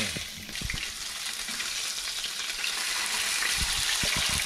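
Gummy shark fillets sizzling steadily in hot oil in a nonstick frying pan, with a few soft knocks near the end.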